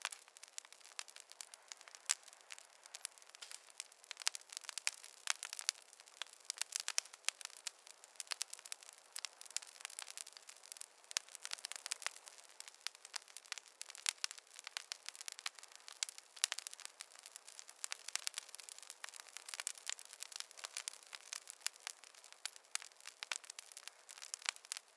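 Wood campfire crackling, with many small irregular pops and snaps over a soft hiss.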